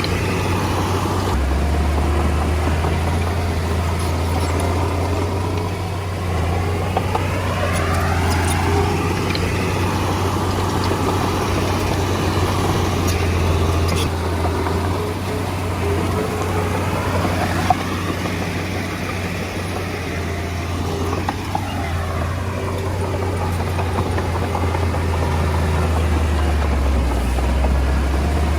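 Komatsu D20A bulldozer's diesel engine running steadily while working, with a strong low drone. A single sharp clank comes about two-thirds of the way through.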